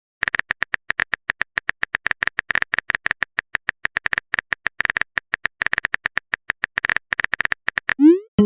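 A rapid, uneven run of short sharp clicks, several a second, stopping shortly before the end.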